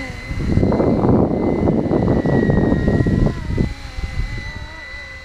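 Gusting wind buffets the microphone loudly for the first three and a half seconds or so, over the steady high whine of a 470-size BO105 scale RC helicopter's electric motor and rotors. As the wind drops, a lower wavering rotor tone comes through.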